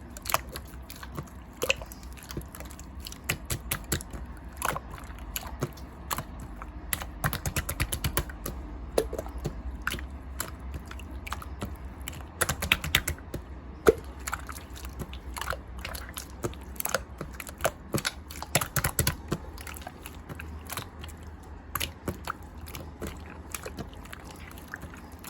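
Light-green slime being squished, stretched and poked by hand, making a continuous run of small, irregular sticky clicks and pops.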